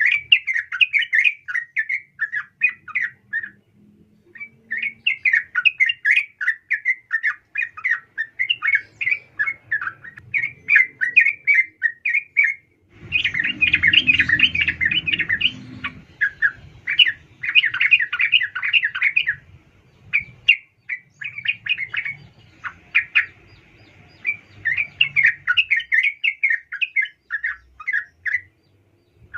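Yellow-vented bulbul (trucukan) giving long runs of rapid chattering notes in phrases several seconds long, with brief pauses between them. These are presented as a female's calls, used to draw males into singing. A low rumble sits under the calls for a few seconds near the middle.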